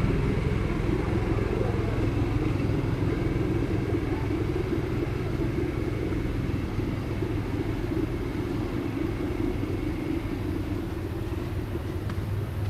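An engine running steadily at an even speed: a low, continuous hum that grows slightly quieter toward the end.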